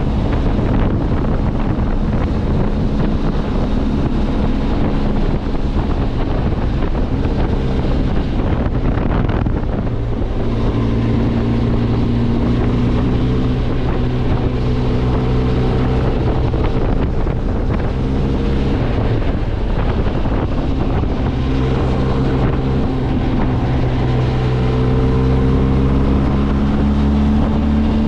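Benelli TRK 502X parallel-twin motorcycle engine running while riding, its pitch stepping up and down a little with speed, with wind rushing over the microphone.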